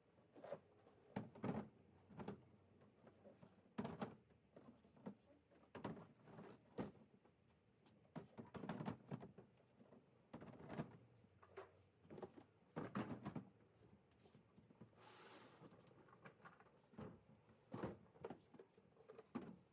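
Faint, irregular knocks, clunks and rustles of household items being handled and packed, with a brief hiss about fifteen seconds in.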